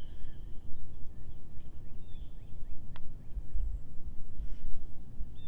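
Birds calling outdoors: short arching chirps, repeated several times, over a low rumble of wind on the microphone. A single sharp click about three seconds in.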